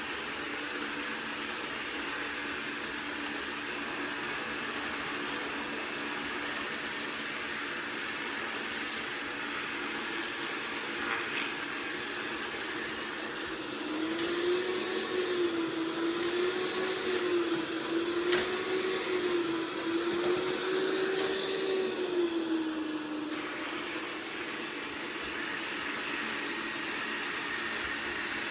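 iRobot Roomba Plus 405 Combo robot vacuum running with a steady motor whir and hiss. About halfway through, a louder whine joins it for roughly nine seconds, its pitch wavering up and down in slow cycles before it fades.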